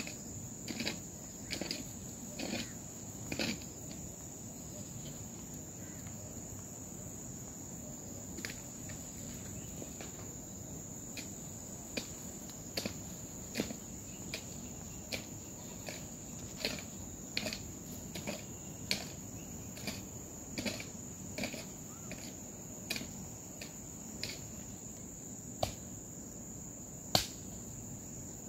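Steady high-pitched trill of insects, with irregular sharp knocks, several in the first few seconds and then scattered every second or two.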